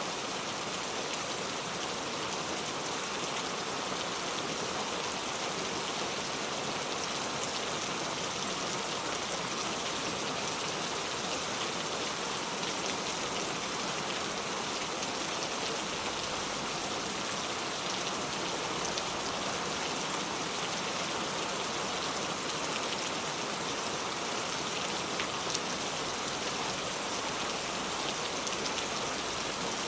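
Steady rain falling, an even hiss of drops pattering on surfaces with scattered individual drop ticks.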